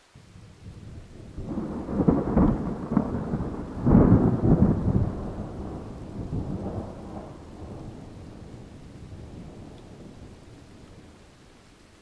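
A thunderclap: two loud cracks about two and four seconds in, then a long rumble fading away, with rain hissing underneath.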